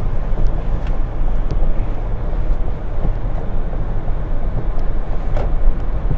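A car driving slowly, heard from inside the cabin: a steady low rumble of engine and road, with a few faint ticks.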